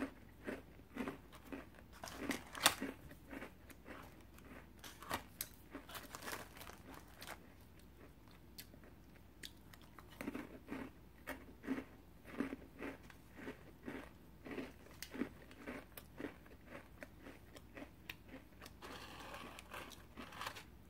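Close-up crunching and chewing of crisp peanut crunch cookies, a run of short, sharp crackles at an uneven pace with each bite and chew.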